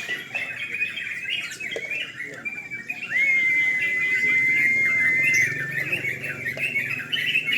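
Caged yellow-vented bulbuls (trucukan) chirping and chattering over one another without a break. About three seconds in, a single loud, steady whistle is held for about two seconds.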